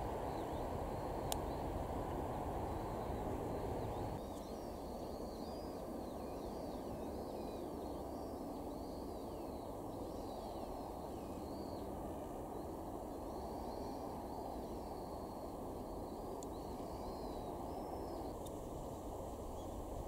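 Small birds chirping, a run of short, high, swooping calls repeated over and over from about four seconds in until near the end, over a steady low outdoor background noise.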